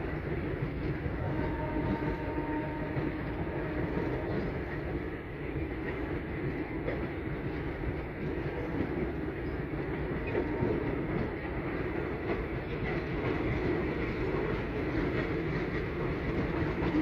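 Passenger train running along the track: a steady rumble of wheels and carriages.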